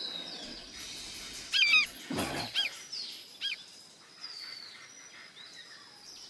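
Birds chirping over a light countryside ambience: a few short warbling chirps between about one and a half and three and a half seconds in, with a brief low whoosh among them.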